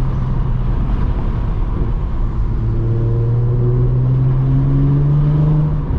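Exhaust of an Audi S4 B8.5's supercharged 3.0-litre V6, running through catless test pipes and an AWE touring cat-back, droning steadily at low revs while cruising. About halfway in the drone grows stronger and its pitch creeps slowly upward as the car gently picks up speed.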